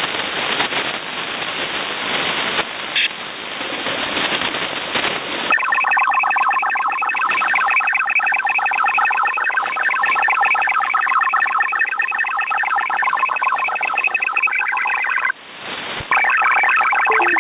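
Hiss from a shortwave single-sideband receiver. About five seconds in it gives way to a warbling, fast-stepping multi-tone digital data signal, typical of automatic link establishment (ALE) on the COTHEN network. The data signal breaks off briefly near the end, then starts again.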